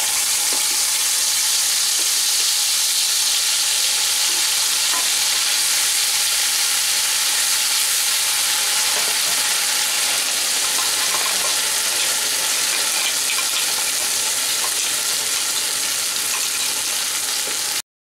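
Wet mustard paste sizzling in hot mustard oil in a nonstick karahi, a steady dense hiss, stirred with a wooden spatula toward the end; it cuts off suddenly shortly before the end.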